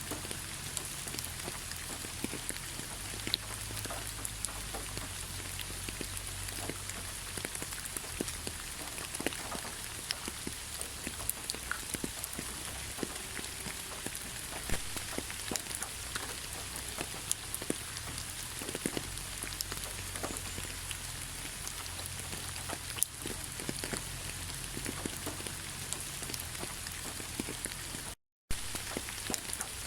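Heavy rain falling: a steady hiss with many separate drops ticking on a surface and a low rumble underneath. The sound cuts out completely for a fraction of a second near the end.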